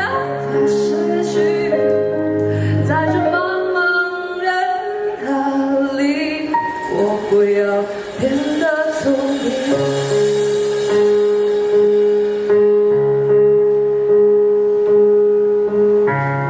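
A woman singing a song over instrumental backing music, with long held notes and chords in the second half.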